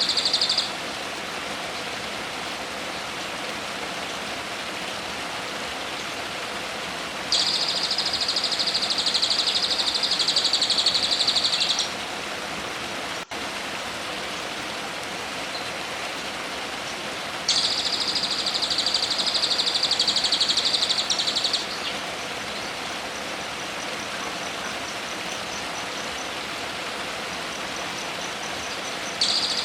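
A songbird's high, rapid trill held about four seconds, heard twice over a steady hiss-like background.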